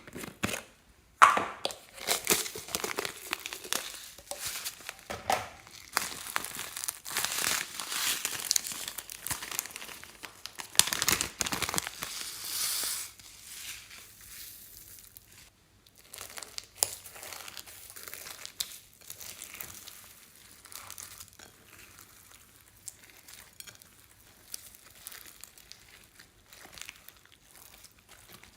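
Slime being squeezed, stretched and mixed by hand, giving dense crackling, crinkling clicks. Louder for the first twelve seconds or so, then softer and sparser.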